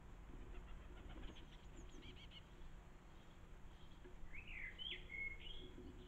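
Faint songbird calls: a run of quick chirping notes in the first couple of seconds, then a louder phrase of rising and falling whistled notes about four seconds in, over a low steady rumble.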